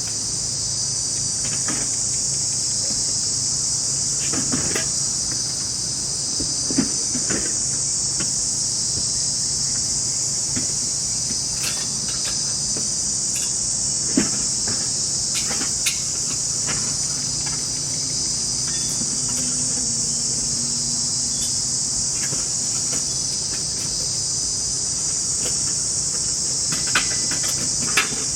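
Steady, dense chorus of forest insects, a continuous high-pitched chirring, with a few scattered light clicks and knocks.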